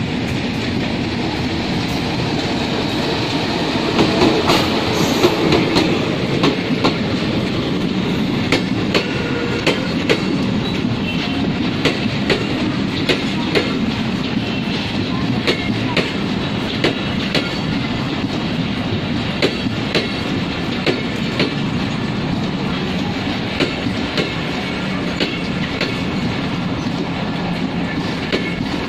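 Bangladesh Railway diesel-hauled mail express passing close by. The locomotive goes by, then a long string of coaches rolls past with a steady rumble and frequent clickety-clack of wheels over rail joints.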